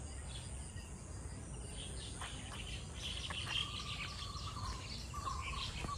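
Birds chirping and calling, the chirps growing busier a couple of seconds in, over a steady high-pitched hum and a low outdoor rumble.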